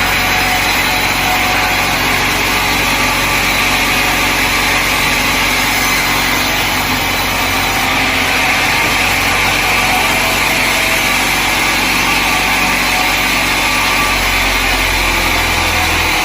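Sawmill saw running steadily, a continuous loud mechanical noise with a low hum under it that drops away right at the end.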